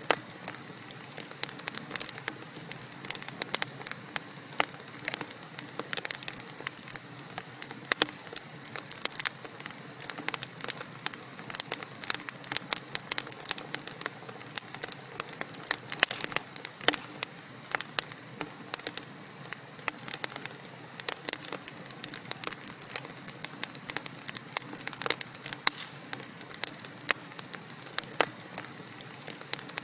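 Wood fire of burning logs in a fireplace, crackling and popping with frequent irregular sharp snaps over a steady soft hiss.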